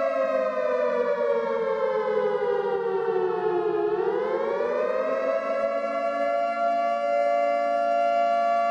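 Civil defense siren sounding a chord of two tones whose pitch slides slowly down, then about four seconds in climbs back quickly and holds steady.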